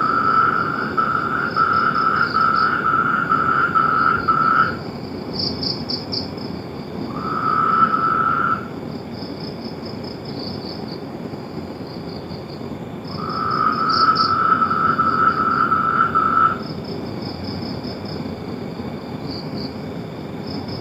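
Frogs calling: a loud, evenly pulsed trill comes three times, in bouts of about five, one and a half, and three and a half seconds, over a steady higher-pitched pulsed chorus.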